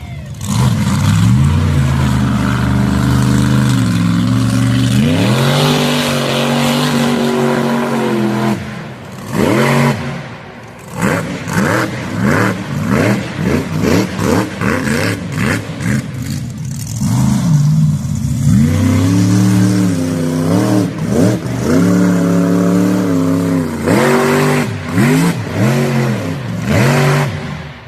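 Mega truck engine revving hard under load: held at high revs for several seconds, then revved up and down rapidly over and over, then held high again near the end.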